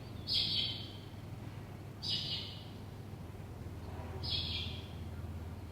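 A bird calling: a short, slightly falling call repeated three times, about two seconds apart, over a low steady hum.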